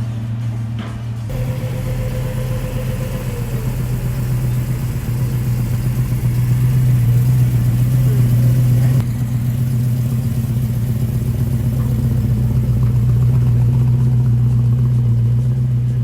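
Car engine idling steadily with a deep, even hum. The sound changes abruptly about a second in and again about nine seconds in.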